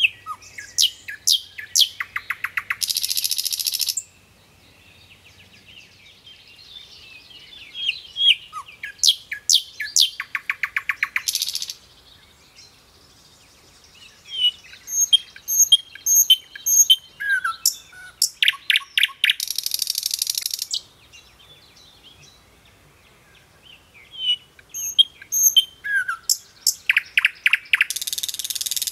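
Songbirds singing: bouts of quick high chirps and whistles come about every eight seconds, and each ends in a fast, buzzy trill about a second long.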